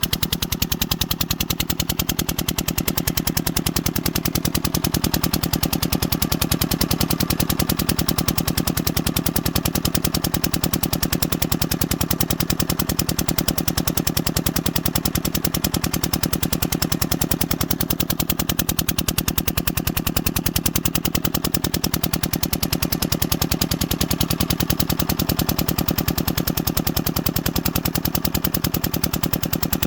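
Vehicle exhaust from a running engine, running steadily with a rapid, even pulsing and no revving.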